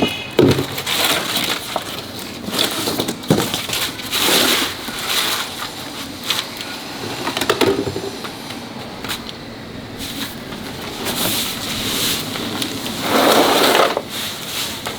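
Irregular knocks, clanks and short scrapes of hand work on car parts, with a longer, louder scrape about thirteen seconds in.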